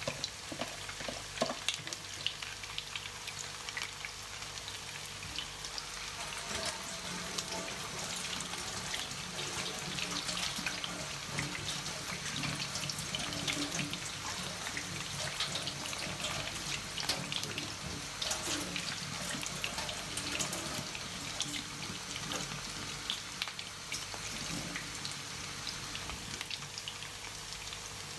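Chicken cutlets sizzling and crackling in hot oil in a frying pan, with water running from a kitchen tap into the sink alongside.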